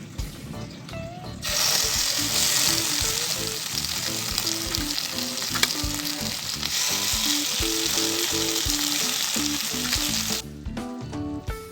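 Chicken satay skewers sizzling on a hot grill pan: a loud, even sizzle that starts about a second and a half in and cuts off sharply near the end. Background music plays throughout.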